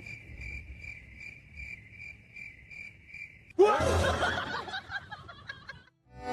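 Cricket chirping, a high steady chirp repeating about three times a second. It is cut off about three and a half seconds in by a sudden louder, noisy sound that fades away over the next two seconds.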